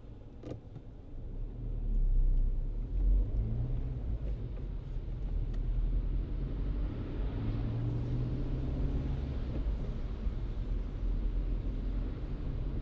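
Car driving on city streets: low engine and road rumble that grows louder about two seconds in, then holds steady with the engine note swelling twice.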